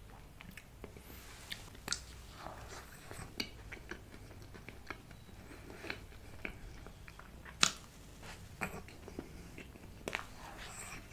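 Close-miked mouth sounds of a person eating soft chocolate cake with whipped-cream frosting: wet chewing, smacks and sharp clicks at irregular moments, the loudest about seven and a half seconds in.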